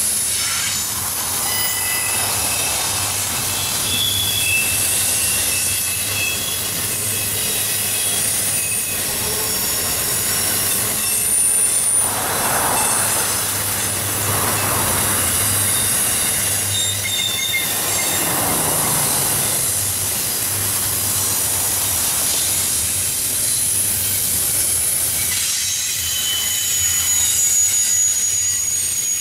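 Double-stack intermodal well cars rolling past with a steady rumble of steel wheels on rail, broken by short high-pitched squeals from the wheels.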